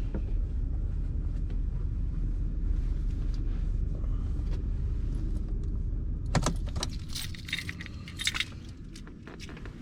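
A truck's engine running with a low rumble that cuts off about six and a half seconds in, followed by a jangle of keys with light metallic clicks.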